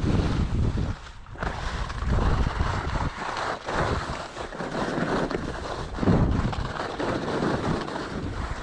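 Wind rushing over a GoPro action camera's microphone while skiing, with the hiss of skis on snow. The rushing swells and eases, dropping off briefly about a second in.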